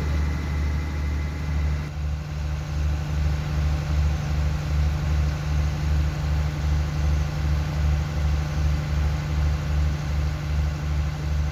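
Diesel engine of a stationary train idling, a steady low hum that pulses about two and a half times a second.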